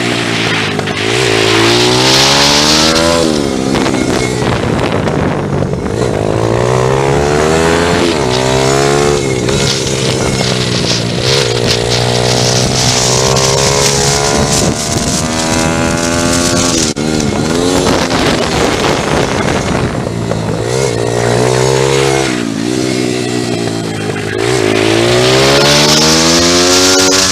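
Pit bike engine revved hard, its pitch climbing and dropping back over and over, every few seconds, as it goes up through the gears and slows for corners.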